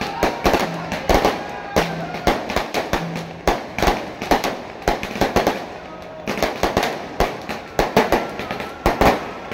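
Firecrackers going off in a rapid, irregular run of sharp bangs, with faint music and voices underneath.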